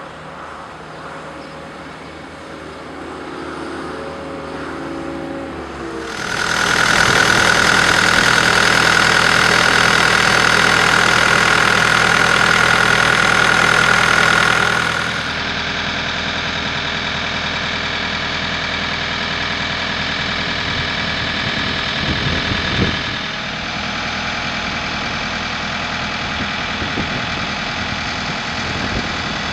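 Case 420 skid steer loader's turbocharged diesel engine running: idling, then throttled up about six seconds in and held high with a strong high-pitched whine, then eased back about fifteen seconds in to a steady lower speed.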